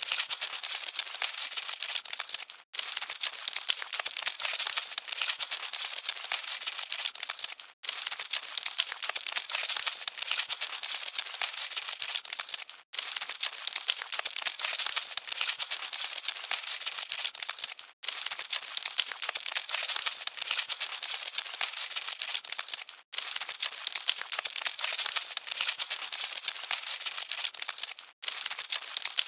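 Cockroaches scuttling: a dense, dry crackle of tiny scratchy clicks. It is a short recording looped about every five seconds, with a brief gap at each repeat.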